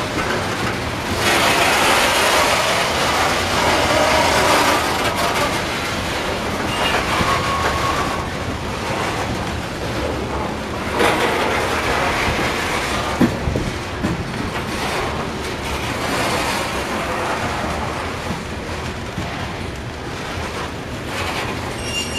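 Freight train of covered hopper cars rolling past at trackside, steel wheels clicking over the rail joints. The rumble swells and eases as the cars go by.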